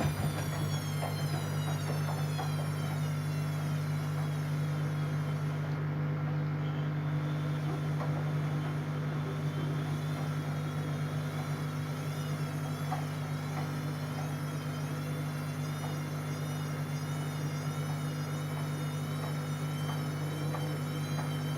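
Siemens Siwamat C10 washing machine running: a steady low hum with a thin, buzzing whine above it. The whine slides down in pitch over the first few seconds and then wavers up and down.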